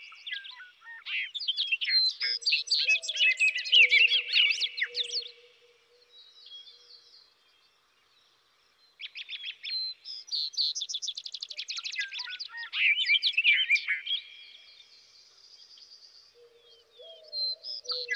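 Songbirds singing: two bouts of rapid chirping and trilling with a pause of a few seconds between, and a faint low steady note beneath the first bout and again near the end.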